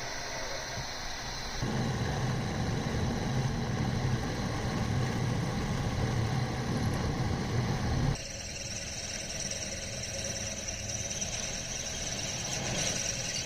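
A small benchtop machine tool running steadily, with a low hum and then a steady high whine. The sound changes abruptly about two seconds in and again about halfway through, as the footage cuts between shots of machining.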